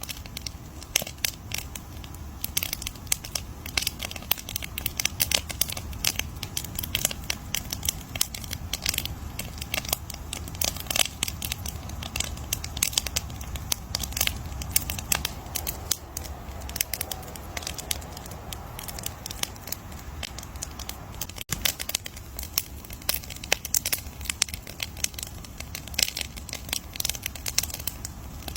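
Wood bonfire crackling: dense, irregular pops and snaps over a low, steady rumble of the flames.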